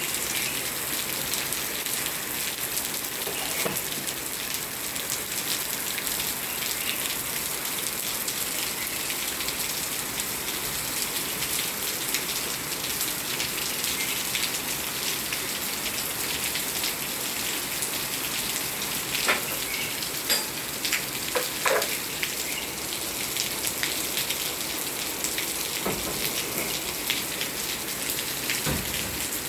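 Steady rain falling, an even hiss of drops on surfaces, with a few sharper drips and splashes about two-thirds of the way through and again near the end.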